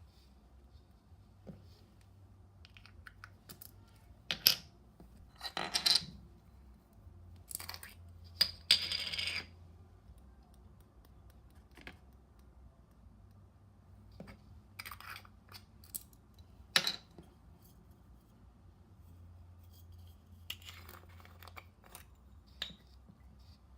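Small hard objects and containers being handled: scattered clicks and several short clattering bursts with quiet gaps between them.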